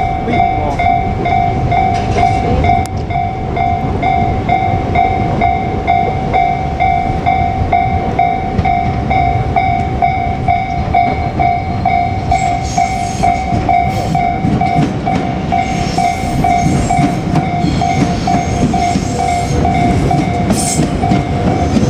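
Japanese level-crossing warning bell ringing in a rapid, steady repeating clang, over the rumble of a JR Kyushu 787-series express train running past on the rails. More rattle and hiss join from about halfway through as the train passes closer.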